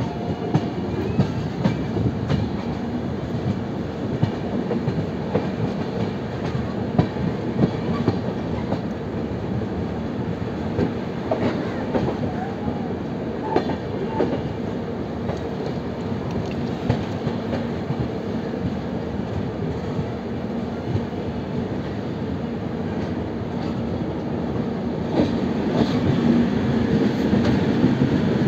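Running noise of a passenger train heard from an open coach door: a steady rumble of wheels on rail with scattered clicks and clacks as the wheels cross rail joints and points. It grows louder near the end.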